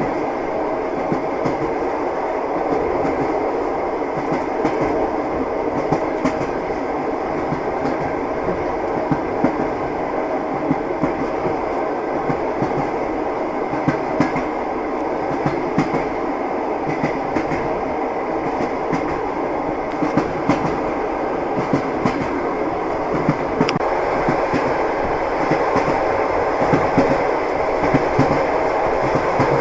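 Train wheels running over rail joints, a steady rumble of moving railway carriages with irregular clickety-clack knocks.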